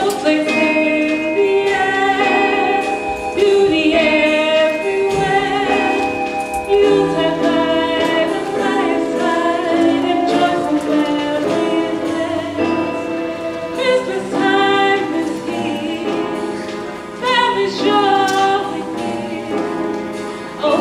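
A choir singing in close harmony, holding long notes, some with a waver of vibrato.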